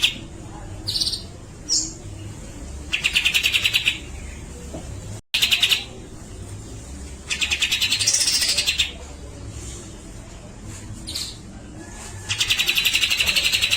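Grey-cheeked bulbul (cucak jenggot) calling in loud, rapid, buzzy rattles, each about a second and a half long, three times, with one shorter rattle and a few brief single chirps between them. These are the harsh 'besetan' rattles prized in this bird's song.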